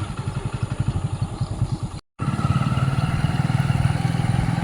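Motorcycle engine running steadily under way, a rapid even pulsing. The sound drops out completely for a moment about two seconds in.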